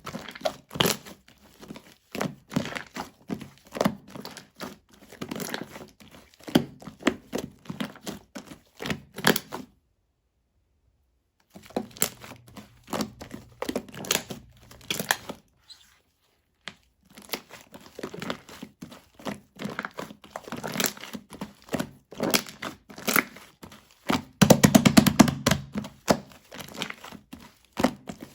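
Clear slime mixed with shaving foam being kneaded and stretched by hand: a dense run of sticky squishes, pops and crackles. The sound cuts out twice briefly near the middle, and it grows louder and denser near the end.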